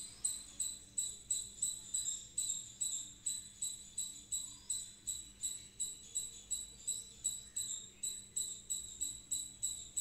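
A small bird calling over and over, a short high ringing note repeated very evenly about twice a second.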